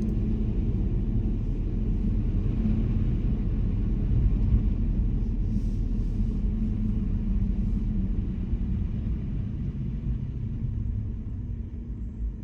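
Car driving on a snowy road: a steady low rumble of tyres and engine, growing quieter over the last few seconds.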